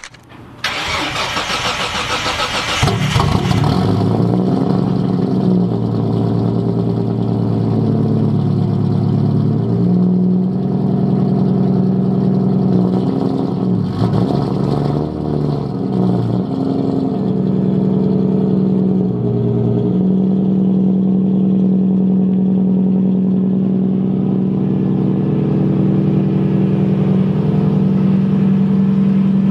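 The RB-series inline-six in a Nissan 240SX cranks and fires up in the first few seconds, then settles into a loud, steady idle, its speed shifting briefly a few times.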